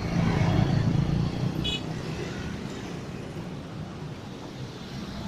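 Roadside traffic: vehicle engines running past, loudest in the first second and a half, with a brief high toot about two seconds in.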